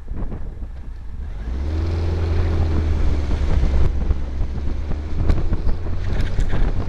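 An open-topped buggy's engine running on the move, picking up and pulling harder about a second and a half in, with wind buffeting the microphone.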